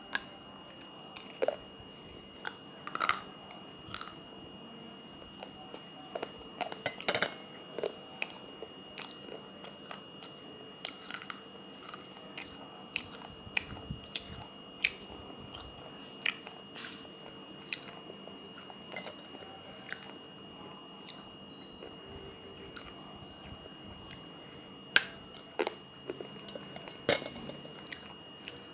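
Biting and chewing pieces of a water-soaked clay kulhad cup: irregular sharp crunches and crackles, a few much louder bites among many small ones.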